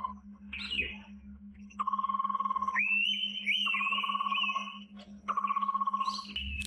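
Forest animal calls: a rapidly pulsing trill near one pitch, about a second long, repeated three times with short gaps, overlaid by higher slurred whistled notes.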